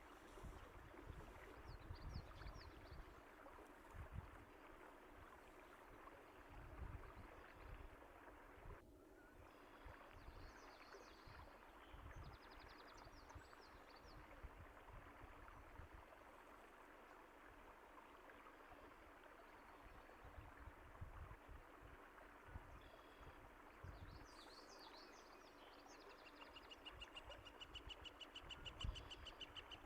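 Faint, steady flowing water with wild birds chirping now and then, and a fast trilling birdcall near the end.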